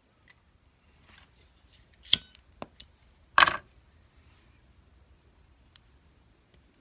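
Small metal tools and pieces clinking on a jeweller's bench: a few light clicks, then one louder clink with a short ring about three and a half seconds in.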